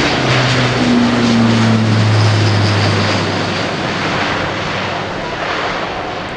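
Airbus A400M airlifter's four TP400-D6 turboprop engines and propellers droning loudly with a low propeller hum as the aircraft passes. It is loudest a second or two in, then fades away.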